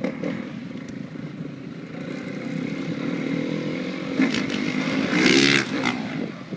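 Freestyle motocross bike engine running and revving up, getting louder over several seconds and loudest about five seconds in.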